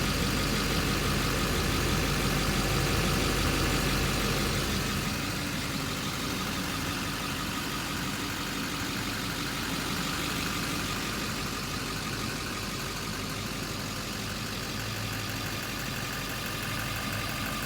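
6.6-liter Duramax turbo diesel V8 of a 2008 Chevrolet Silverado 2500 idling steadily, a little louder for the first few seconds; it runs smoothly, sounding healthy.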